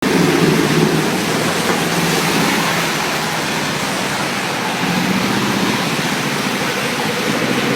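Steady rain falling, an even hiss, with a low rumble underneath that swells near the start and again about five seconds in.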